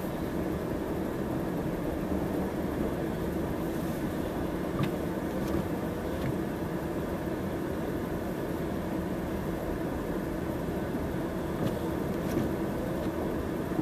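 Tractor engine running steadily with a constant low hum, while plowing snow.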